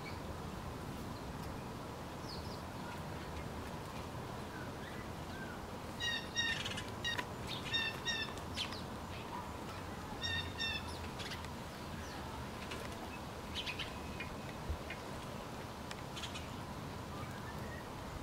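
Small birds chirping: short runs of quick, repeated high chirps, clustered from about six to eleven seconds in, with a few single chirps scattered around them over a steady outdoor hiss.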